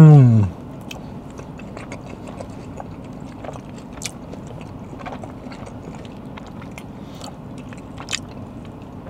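A man chewing a mouthful of chicken parm sandwich on soft bread, with faint smacks and small mouth clicks. It opens with a loud hum that falls in pitch and lasts about half a second.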